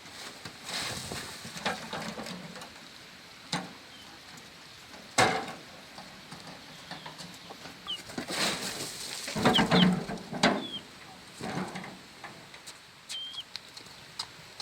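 Farmyard chickens clucking, with short high chirps from small birds and a few sharp knocks in between.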